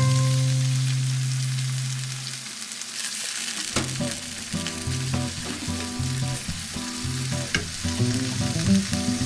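Bolognese meat sauce sizzling in a hot frying pan as water is stirred into it with a wooden spatula, thinning it down. Soft plucked-guitar background music plays underneath.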